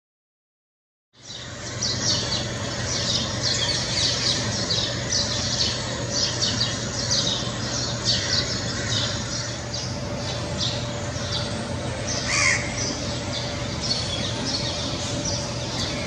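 Small birds chirping in quick, dense, high-pitched notes over a steady low hum of city background noise, with one louder call about twelve seconds in. The sound starts about a second in, after silence.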